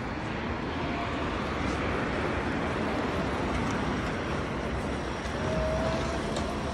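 Steady vehicle and road noise with no clear rhythm, with a short thin tone about five and a half seconds in.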